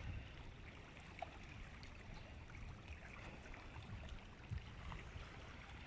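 Faint water lapping and trickling, with a low gusty rumble of wind on the microphone and a few small ticks.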